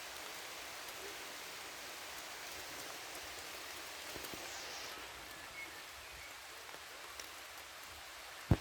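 Steady rain falling in a forest: an even hiss of drops with a few louder drips, and a single low thump near the end.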